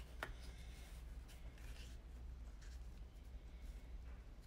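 Faint handling of paper cardstock pieces: a light tap just after the start, then a few soft scrapes and rustles of paper sliding, over a low steady hum.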